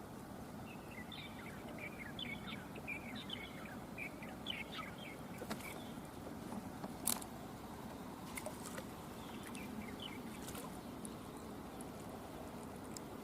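Outdoor riverside ambience: a steady rush of fast-flowing river water, with quick bird chirps over the first few seconds and a sharp click about seven seconds in.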